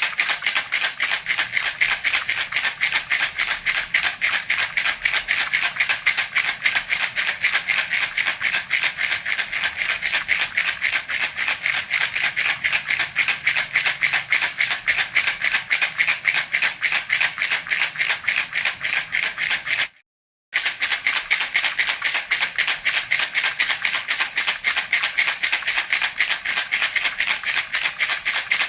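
Baby rattle (jhunjhuna) shaken steadily in quick, even strokes, its beads rattling continuously, with a brief break of silence about two-thirds of the way through.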